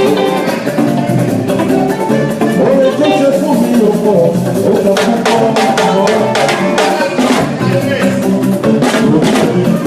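Live band music with a drum kit and percussion over held chords. Sharp percussion strikes come in more strongly about halfway through.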